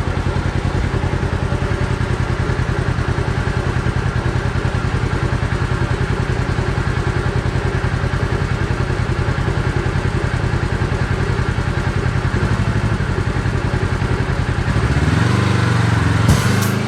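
Side-by-side UTV engine running steadily under way on a rough trail, with a fast even low pulse. About fifteen seconds in, the engine note rises as it revs up.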